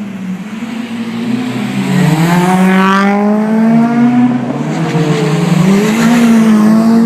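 Sports car engine accelerating hard and growing louder about two seconds in. The engine note climbs and drops back several times as it shifts up through the gears.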